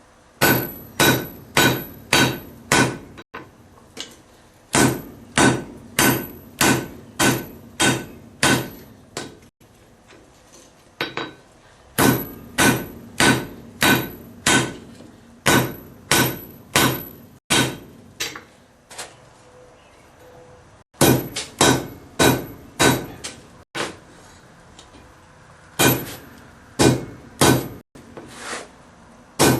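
Blacksmith's hammer striking hot titanium on an anvil in runs of steady blows, about two a second, each with a short metallic ring. The runs are split by pauses of a few seconds.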